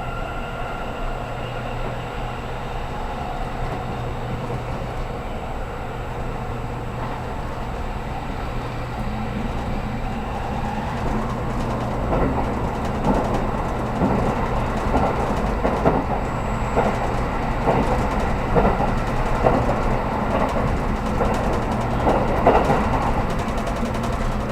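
783-series electric train running, heard from inside the passenger car: a steady running hum, then from about halfway the wheels clatter over rail joints in a string of sharp knocks.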